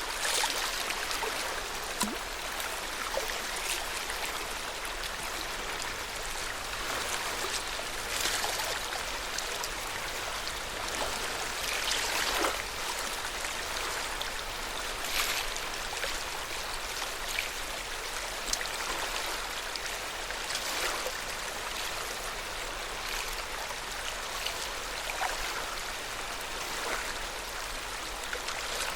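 Lake water lapping at the shore of Lake Yamanaka: a steady wash of small waves with irregular soft splashes every few seconds.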